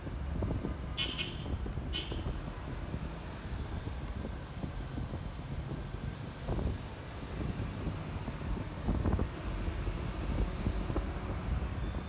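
Wind and road noise over the low rumble of a Honda ADV 150 scooter being ridden through traffic. There are two brief high-pitched sounds about a second and two seconds in.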